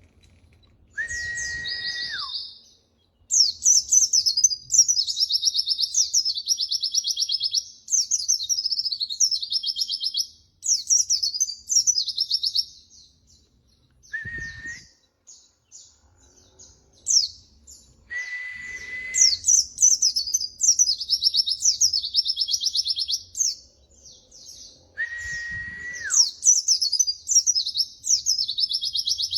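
White-eye (pleci) song: long phrases of rapid, high trilled twittering. Four times, a steady whistled note about a second long, falling away at its end, comes just before a phrase.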